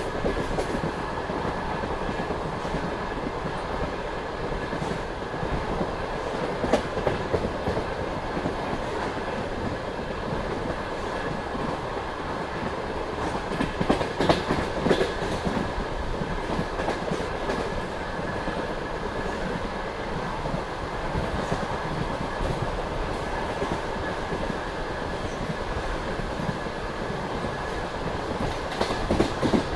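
Passenger train carriage rolling along the line: a steady rumble of wheels on the rails with clicks as the wheels cross rail joints. A louder cluster of clacks comes about halfway through and again near the end.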